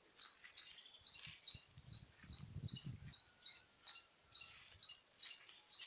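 A bird giving one short, high chirp over and over, very evenly, about two and a half times a second. A faint low rumble comes in around the middle.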